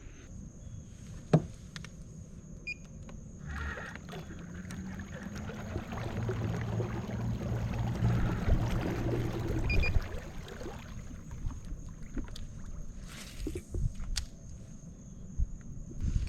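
Handling noises aboard a fishing kayak on the water: a sharp knock just over a second in, scattered clicks and rustles, and a few seconds of low steady hum in the middle.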